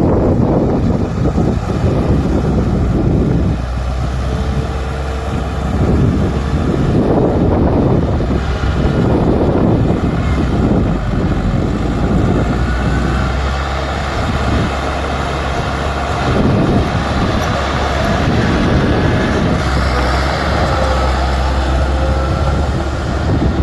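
Bulldozer's diesel engine running steadily under load, its loudness rising and falling a little as it works.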